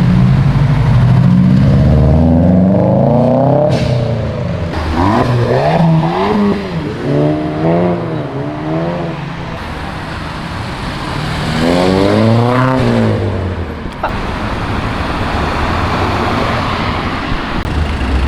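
Car engines revving and accelerating past. One pulls away with rising revs, a run of throttle blips follows, and another hard acceleration climbs steeply about twelve seconds in, with steady traffic noise after it.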